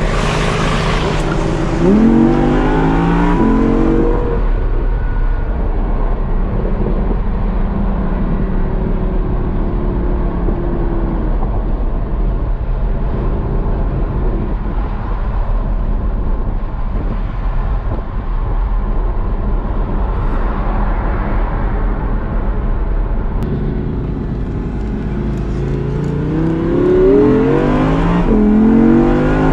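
Audi R8's V10 engine heard from inside the cabin, accelerating hard twice: each time the pitch climbs and drops back in quick steps as the dual-clutch gearbox shifts up. In between, the engine runs steadily at a lower pitch under a constant road hum.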